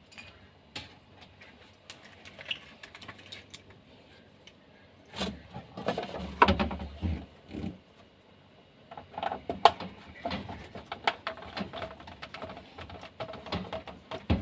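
Scattered sharp clicks and light knocks of small parts being handled, busier with clatter and dull thumps about a third of the way in and again past the middle.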